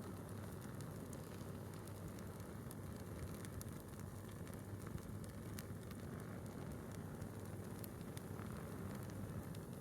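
A small wood fire burning from a single log, with scattered faint crackles and ticks over a steady low rumble.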